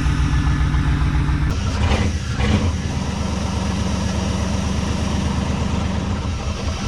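Engine of a 1994 GMC C3500HD truck idling, its note changing about a second and a half in and then running steadily.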